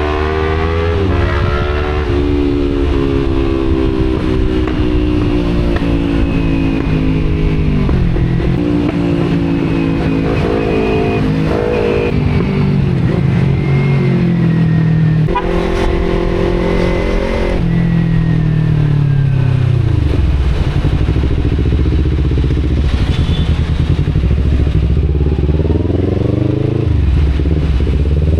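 Kawasaki Z250 parallel-twin with an Akrapovic exhaust, riding in traffic: the engine note climbs and drops sharply with each gear change, slows down about two-thirds of the way in, then picks up again near the end.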